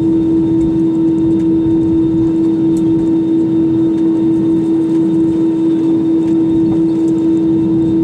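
Steady cabin noise inside an Airbus A320-200: a constant low rumble with one steady tone running through it.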